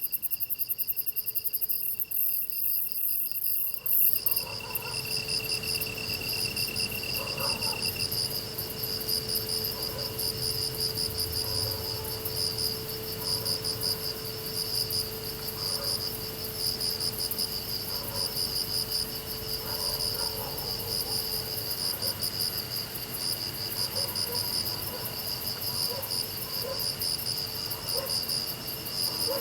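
Chorus of crickets and other grass insects chirping: a steady high trill with rows of rapid pulsed chirps above it. The mix of insects changes abruptly about four seconds in.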